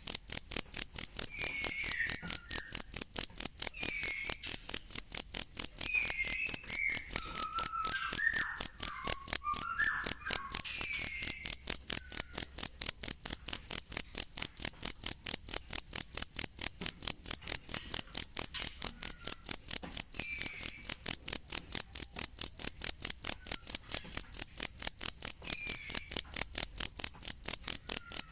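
Cricket chirping in a steady, even rhythm of about three high-pitched chirps a second. Fainter short chirps sound underneath every few seconds.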